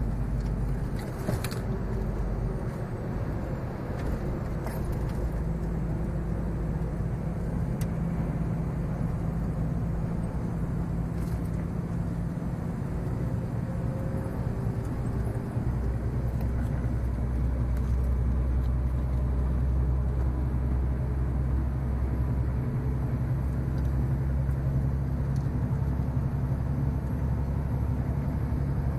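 Scania 143M 470's 14-litre V8 diesel engine running with a steady low drone, its note shifting about five seconds in and again about fifteen seconds in.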